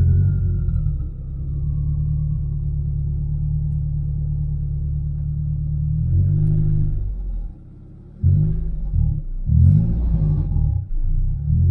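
Turbocharged Honda Prelude four-cylinder engine heard from inside the cabin, running steadily at low speed for about six seconds, then a series of short throttle blips, each rising and falling in pitch, in the second half. A faint falling whistle fades away in the first two seconds.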